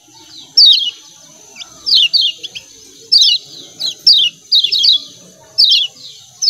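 Kecial kuning (Lombok yellow white-eye) giving its 'ciak ciak' chatter: short, sharp, falling chirps in quick pairs and triplets, repeated about once a second, over a steady high hiss.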